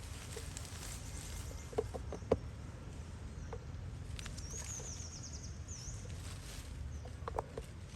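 Outdoor ambience with a steady low rumble and a few soft taps, and a high, rapid bird trill about four seconds in that lasts over a second.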